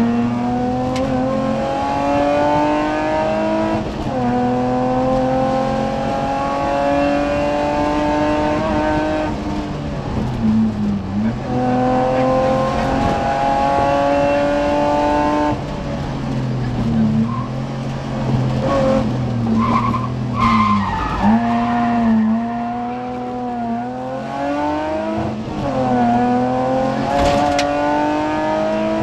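BMW E30 rally car's engine heard from inside the cabin, pulling hard through the gears: its pitch climbs steadily and drops at each upshift, about four and fifteen seconds in, then falls and blips through braking and downshifts around ten seconds and again between about sixteen and twenty-two seconds, before climbing through another upshift near the end.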